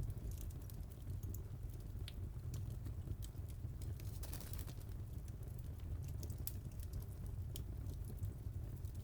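Wood fire crackling in a fireplace: scattered sharp pops and snaps over a steady low rumble, with a brief hiss about four seconds in.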